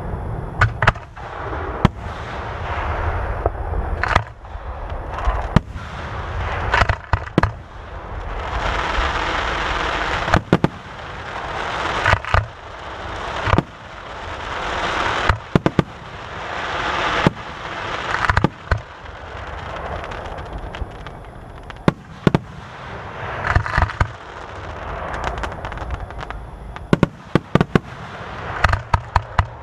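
Aerial fireworks display: shells bursting with sharp bangs every second or two, with swelling rushes of noise between them. A quick run of bangs comes near the end.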